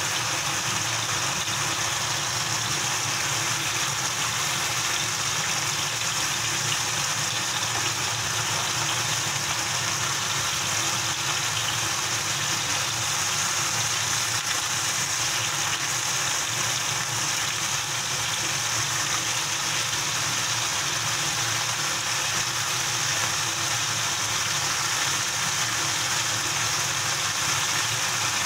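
Beef-wrapped enoki mushroom rolls sizzling steadily in a frying pan over a steady low hum.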